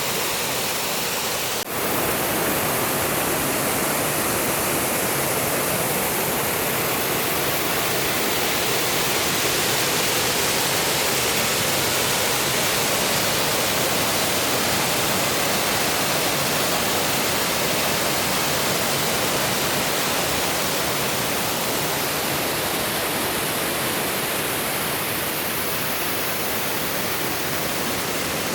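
Steady, loud rushing of a mountain river's water, with one brief break in the sound about one and a half seconds in.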